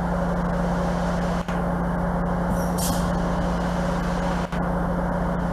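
Train engine running steadily with a constant low hum. A short high hiss of air comes about three seconds in.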